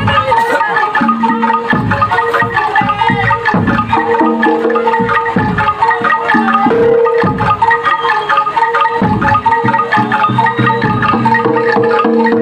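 Loud, continuous ensemble music of pitched metal mallet percussion over drums, in a steady rhythm, in the manner of Javanese gamelan accompanying a jaranan performance.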